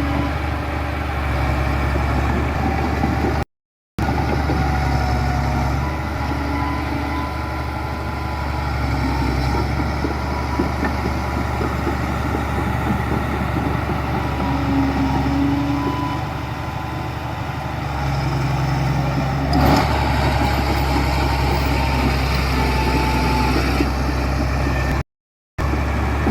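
Heavy diesel engines of earthmoving machinery, bulldozers and dump trucks, running steadily, with a single knock about twenty seconds in. The sound drops out briefly just before four seconds in.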